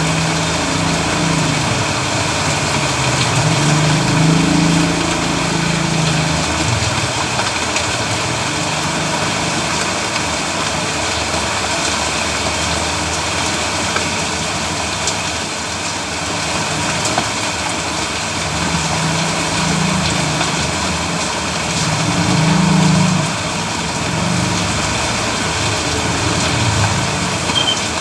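Steady rain hissing on a road, with the engines of passing motor vehicles swelling and fading, loudest about four seconds in and again near twenty-three seconds.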